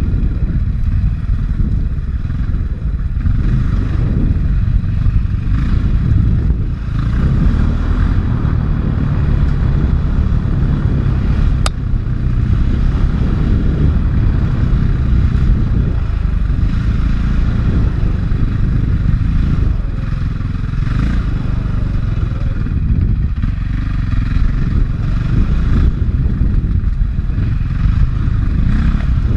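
450cc four-stroke single-cylinder dirt bike engine running under changing throttle, heard from a helmet-mounted camera with heavy wind buffeting and clatter from the bike over rough ground.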